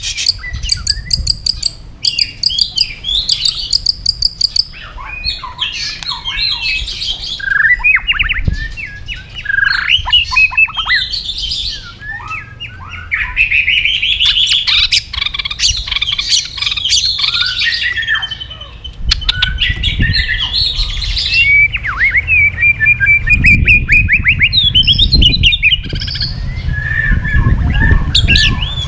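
White-rumped shama singing a long, varied song: fast clicking rattles, sliding whistles and trilled phrases follow one another without pause. A low rumble sits under the song in the second half.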